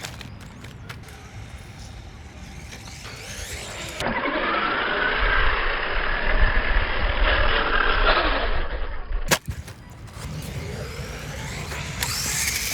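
Brushed electric motor and drivetrain of a WLToys 144002 RC monster truck whining as it is driven, the pitch rising and falling with throttle. It is loudest in the middle stretch, over a low rumble of tyres on the ground.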